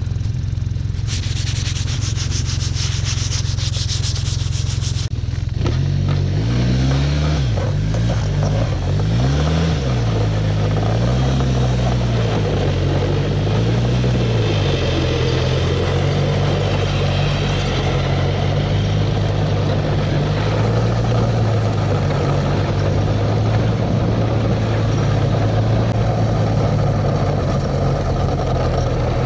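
Snowmobile's four-stroke engine running, its speed rising and falling several times about six seconds in, then settling to a steady drone. A hissing rush lies over it for a few seconds near the start.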